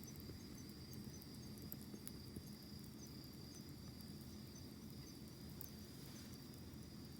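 A wood campfire burning, with a low steady rush and a few sharp crackles. Behind it an insect trills steadily, with short chirps about twice a second.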